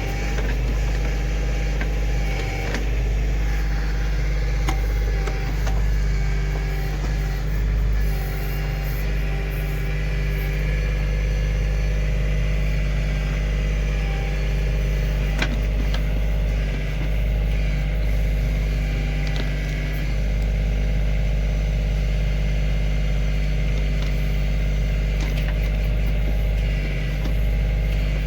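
Kioti CK2610 compact tractor's three-cylinder diesel engine running at a steady speed, with a few short sharp knocks, the strongest about halfway through.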